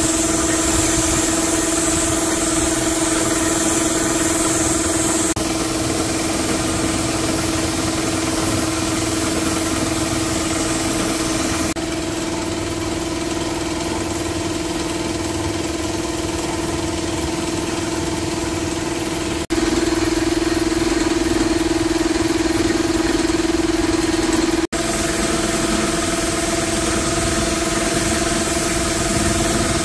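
An engine running steadily at idle with a constant hum. The sound changes abruptly several times, as between edited shots of the same running engine.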